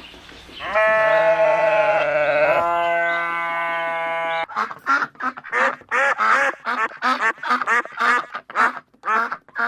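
Farm animal calls: two long, steady, drawn-out calls one after the other, then a fast run of short, choppy calls, several a second.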